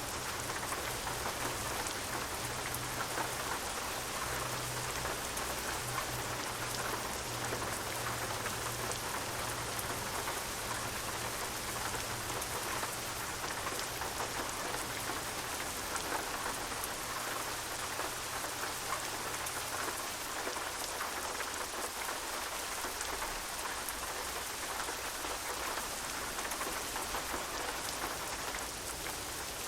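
Steady rain falling, a dense even patter of drops. A low steady hum, likely the truck engine the recording is named for, runs underneath and fades away about two-thirds of the way through.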